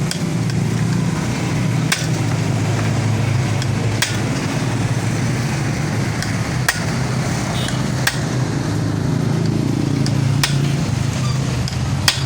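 Hand tools working a stubborn, just-freed engine bolt: six sharp metal clicks or taps, one every couple of seconds, over a steady low hum.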